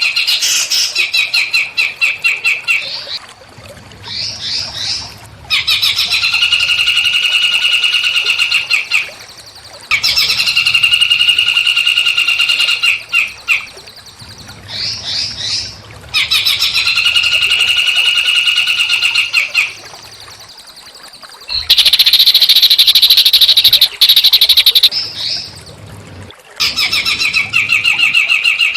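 A small songbird sings loud, rapid trilled phrases of fast repeated notes, each lasting a few seconds with short pauses between. A harsher, raspier phrase comes about two-thirds of the way through. This is a looped masteran recording of rough song used to train songbirds such as the white-rumped shama.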